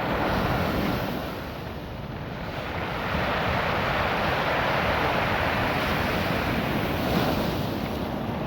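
Ocean waves washing over a beach of small rounded rocks, with the rush of surf rising and falling: louder just after the start, easing around two seconds in, then building again from about three seconds and staying up.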